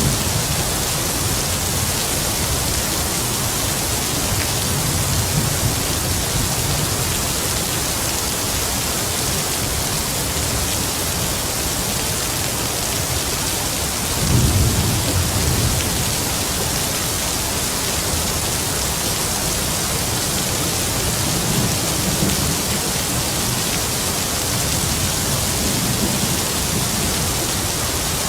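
Heavy rain falling in a steady hiss, with distant thunder rumbling low underneath. The thunder swells several times, loudest about halfway through.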